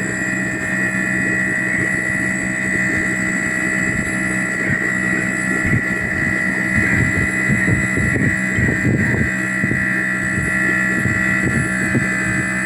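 Small 12-volt airbrush compressor running steadily: a pump-motor hum with a constant high whine.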